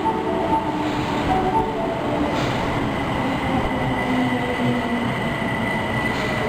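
Osaka Metro Tanimachi Line subway train running at a platform: a steady rumble with short, shifting mid-pitched tones and a thin steady high tone.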